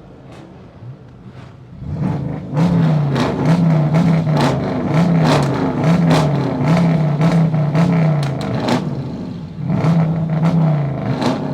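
Car engine revved over and over, its pitch rising and falling about once a second, loud from about two seconds in, with sharp cracks mixed through the revs.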